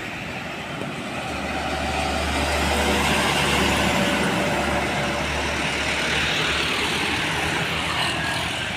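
Truck driving past: engine rumble and tyre noise swell to a peak about three seconds in, then ease away.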